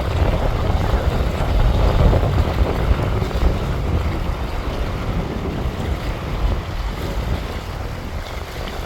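Wind buffeting the microphone: a loud, uneven low rumble of gusts with no pitch to it, easing a little toward the end.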